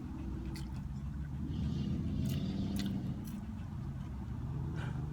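Close-up chewing of a bacon cheeseburger, with scattered wet mouth clicks, over a steady low rumble that swells in the middle.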